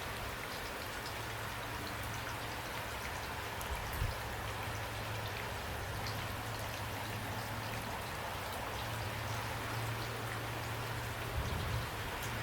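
Steady rain falling, with individual drops heard as fine ticks over an even hiss. A low hum runs underneath, and there are two soft low thumps, about four seconds in and near the end.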